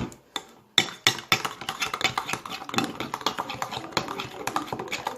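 Slime base with glitter being stirred in a small pot, the utensil clicking and scraping against the pot in quick, irregular taps, after a brief pause near the start.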